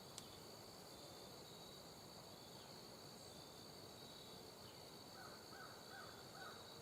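Faint steady trilling of evening insects, with a short run of about five faint bird calls a little past five seconds in.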